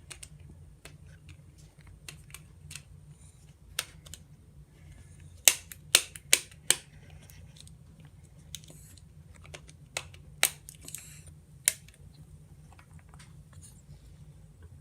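Moluccan cockatoo chewing something hard with its beak: a scatter of sharp cracks and clicks, loudest in a quick run of four about midway.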